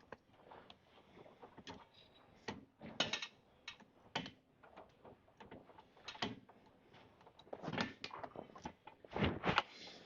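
Plate-loaded seated row machine clunking and rattling as it is worked through repetitions. The metal knocks come every second or two, the loudest near the end.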